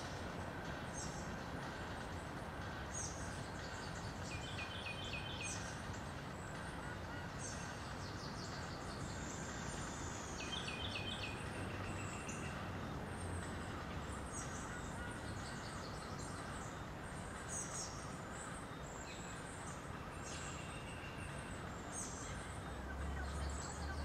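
Songbirds singing and chirping: scattered short, high chirps throughout, and the same quick run of several notes sung twice, about six seconds apart, over a steady background hiss.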